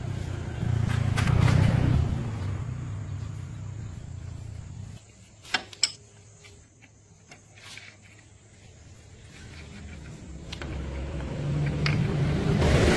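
A motor vehicle's engine rumble swells and fades away, two sharp clicks follow, then a vehicle engine builds up again, loudest just before it cuts off.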